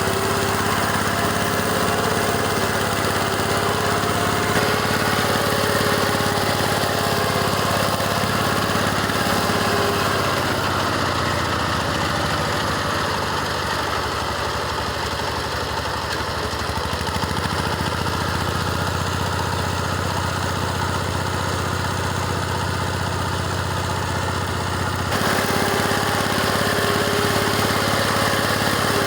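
Small tractor engine running steadily under load while driving a rotary mower through tall grass. The engine note sags for a long stretch in the middle and picks back up near the end, a sign of the mower working hard on the motor.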